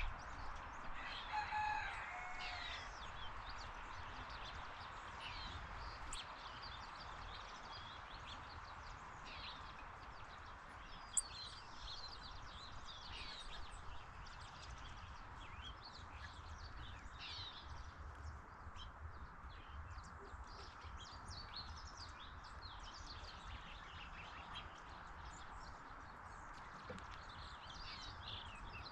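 Wild birds chirping and calling off and on, with a louder, drawn-out call in the first few seconds, over steady background noise.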